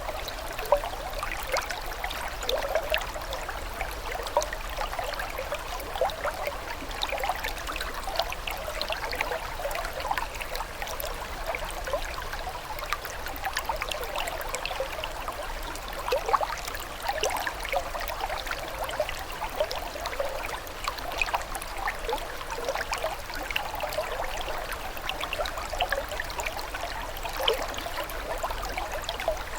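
Running water trickling and gurgling without a break, a dense patter of small irregular splashes.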